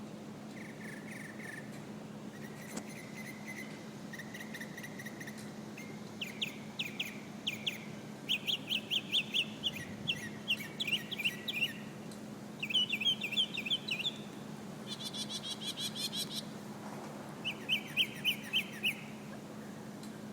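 Northern mockingbird singing a string of varied phrases, each repeated several times. It starts with soft notes, then from about six seconds in moves to quick runs of sharp chirps. A steady low hum lies underneath.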